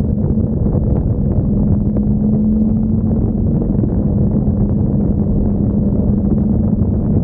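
Motorcycle engine running at a steady cruising speed, a constant low drone with wind rumbling over the microphone.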